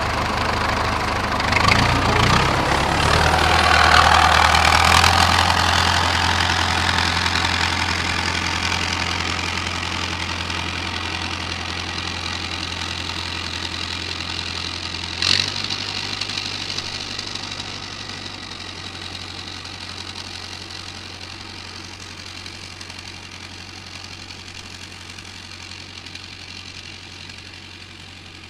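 A DIY mini tractor's small motor running steadily with a low hum. It is louder in the first few seconds, then fades gradually, with a sharp click about fifteen seconds in.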